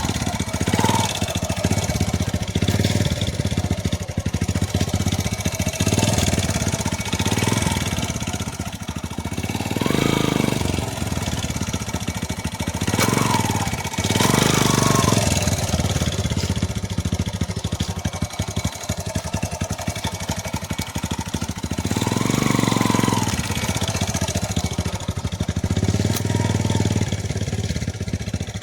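Motorcycle engine idling, the throttle opened several times so that the engine note rises and falls in repeated swells.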